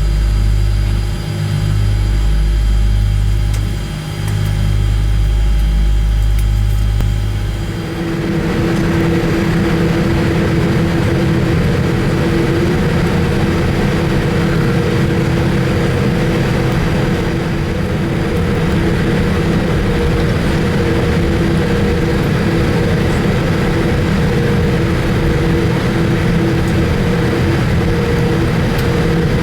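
Jet airliner cabin noise of a Boeing 787-8 with its engines running: a heavy low rumble that swells and dips for the first several seconds, then an abrupt change about eight seconds in to a steady, broader engine noise with a constant hum.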